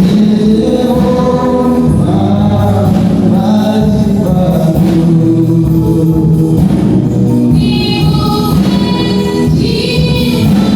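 Gospel music: a choir singing a praise song with instruments.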